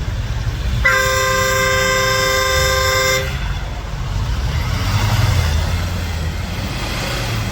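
A vehicle horn sounds one steady two-note blast of about two seconds, starting about a second in, over a continuous low engine rumble.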